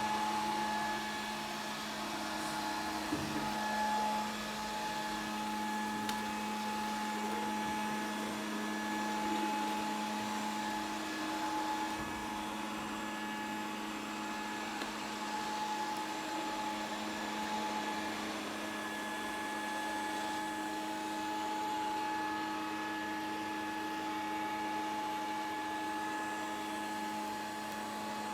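Grundig VCR 2131 robot vacuum cleaner running: a steady motor hum with a high whine over a hiss, and a few light knocks about three to four seconds in.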